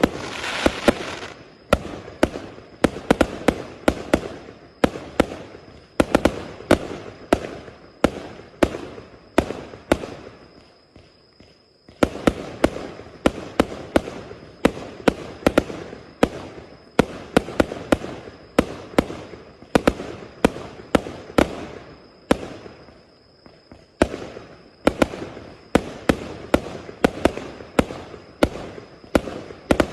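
A 1000-shot 0.8-inch firework cake firing in a fan pattern: sharp shots in rapid succession, several a second, each with a short crackling tail, easing off briefly twice before picking up again.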